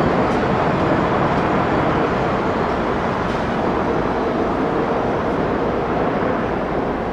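Airbus A350-900 jet airliner with Rolls-Royce Trent XWB engines, its jet noise a steady, loud rumble that slowly fades.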